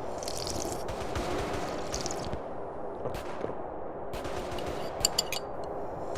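Tea being sipped and slurped from a cup in short wet bursts, over a steady background hiss. A couple of sharp clicks come about five seconds in.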